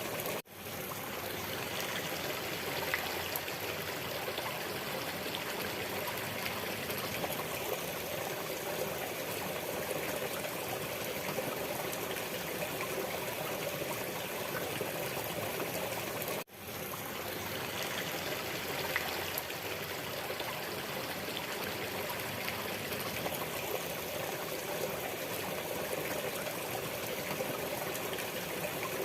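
Waterfall: a steady rush of falling and splashing water. It cuts out abruptly twice, about sixteen seconds apart, and fades back in within about a second each time.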